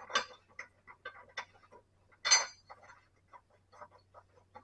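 Irregular metallic clicks and clinks of mower blades and their mounting bolts being handled and fitted back onto the deck, with two louder clanks, one near the start and one about two seconds in.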